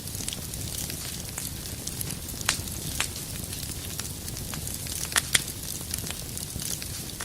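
Wood fire burning in a fireplace: a steady low rumble and hiss with scattered sharp crackles and pops, a quick pair of louder pops about five seconds in.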